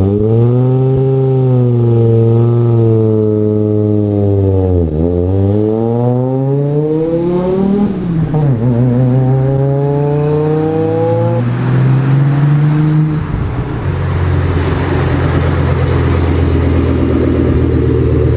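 A car engine accelerating: its note dips, then climbs twice with a sudden drop between, like a gear change, before settling into a steady engine note for the last few seconds.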